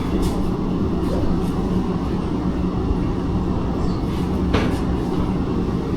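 Steady low mechanical rumble with a constant hum and a few faint brief squeaks, like a vehicle running.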